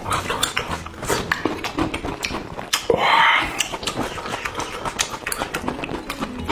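Close-miked eating: wet chewing and smacking in quick, irregular clicks, with a louder, breathy slurp about three seconds in.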